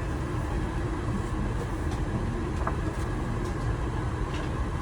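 Steady low rumble of aircraft cabin noise inside an Airbus A380, with a few faint ticks.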